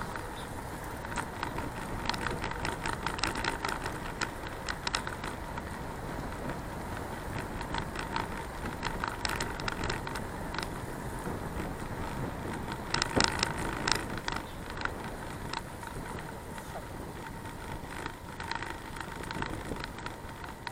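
Ride noise of a bicycle on the move, heard from a camera on the bike or rider: a steady rush of tyre and wind noise with bursts of clicking and rattling over bumps, loudest about two-thirds of the way through. A thin steady whine sits underneath.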